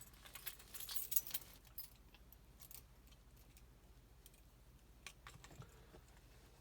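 Light metallic jingling and clicking, strongest in the first two seconds, then a few faint clicks about five seconds in.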